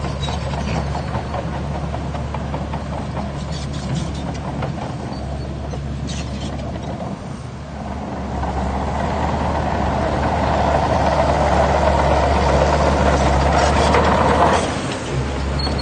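Heavy diesel earthmoving machinery running steadily with a low engine hum. About halfway through it grows louder with a rougher, rushing sound as it works under load, then eases off abruptly near the end.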